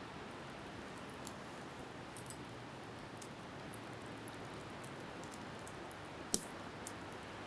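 Wood campfire crackling, with scattered sharp pops and one loud pop near the end, over a steady hiss of wind and surf.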